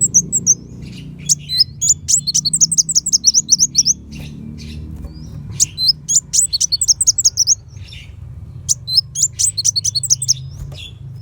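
Kolibri wulung sunbird singing: bursts of rapid, high, sharp chirping notes with short pauses between them, over a steady low hum.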